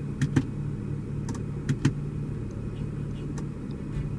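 BMW 435i's turbocharged inline-six idling steadily, with a few short sharp clicks over it.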